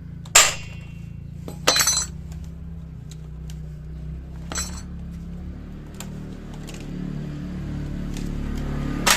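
Metal hand tools clinking as they are picked up and set down: a few sharp metallic clinks with a short ring, the loudest about half a second in and another near two seconds, then lighter taps, over a steady low hum.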